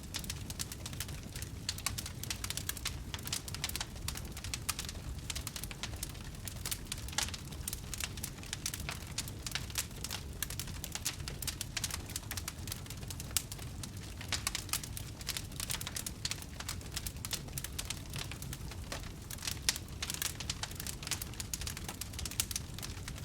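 Wood fire crackling: many irregular sharp snaps and pops over a steady low rumble of burning.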